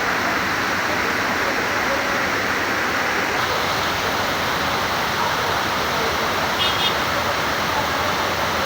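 Heavy rain pouring down in a dense, steady hiss. A brief high chirp comes through about seven seconds in.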